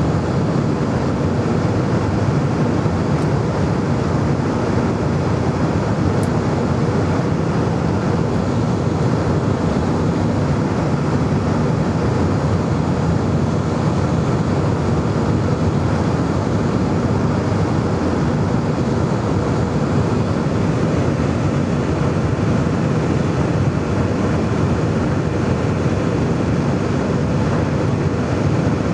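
Airbus A320 in flight: a loud, steady rush of jet engine and airflow noise with a faint low hum, unchanging throughout.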